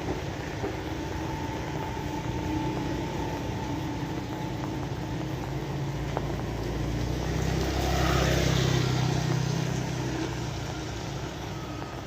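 Steady rain, with a vehicle passing by: a low engine rumble and hiss that swell to their loudest a little past the middle, then fade away.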